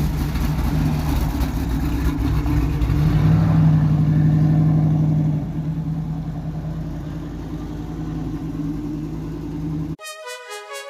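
Car engine running under way. It builds up louder about three seconds in and eases off about five seconds in. It cuts off abruptly near the end.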